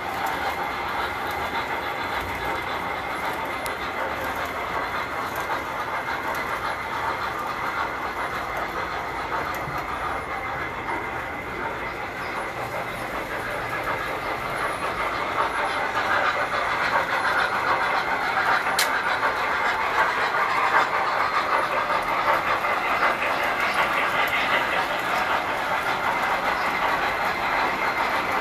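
Tinplate toy electric trains running on metal track: a steady rolling rattle with a thin high whine, growing louder about halfway through, and one sharp click about two-thirds of the way in.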